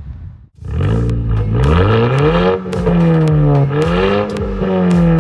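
Volkswagen Scirocco R's turbocharged four-cylinder engine accelerating, starting abruptly about half a second in. Its pitch rises, eases off, rises again and then slowly falls, with sharp clicks throughout.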